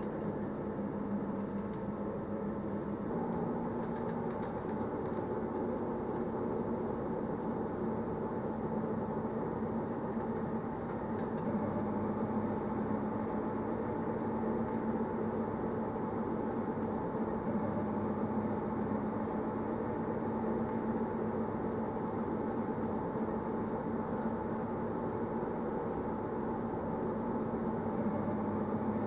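Narrow-gauge Berner Oberland-Bahn electric train running steadily: an even rumble of wheels on the rails with a steady motor hum, getting a little louder partway through.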